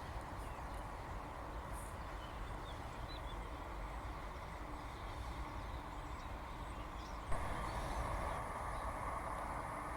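Faint bird chirps over a steady outdoor background hiss. About seven seconds in the background gets louder and a high steady tone joins it.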